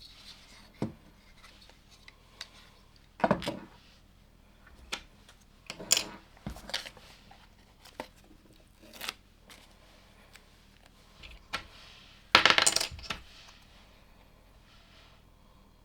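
LEGO plastic pieces clicking and rattling as they are handled and sorted, in a series of separate clicks and short clatters. The longest and loudest rattle comes about twelve seconds in.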